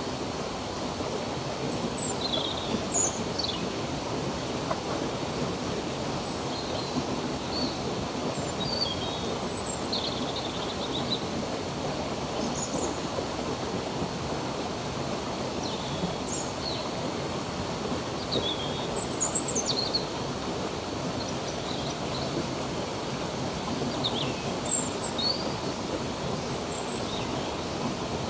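Stream water running steadily, with songbirds giving many short, high chirps and calls throughout.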